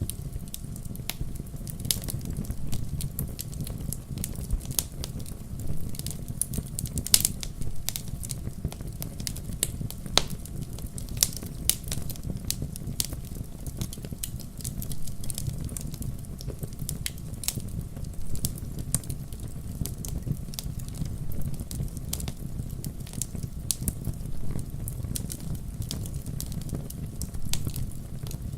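Wood fire in a fireplace crackling, with irregular sharp pops of burning logs, a few louder ones, over a steady low rumble of the flames.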